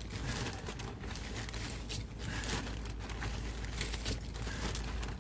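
Hands scooping and handling sandy potting mix, an irregular crinkling rustle with no sharp knocks.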